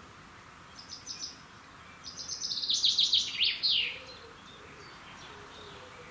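A songbird singing: a brief run of high notes about a second in, then a louder phrase of quick repeated high notes that ends in a few falling sweeps.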